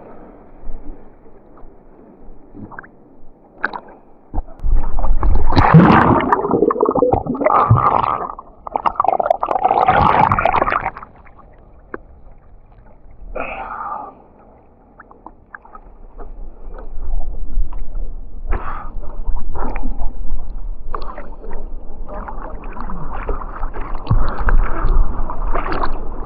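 Muffled gurgling and sloshing of sea water picked up by a GoPro's built-in microphone while it is under the water. Louder churning comes about five to eleven seconds in, and again over the last third.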